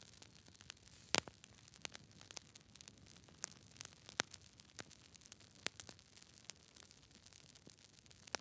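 Campfire crackling: irregular pops and snaps from burning wood over a soft hiss, with one louder pop about a second in.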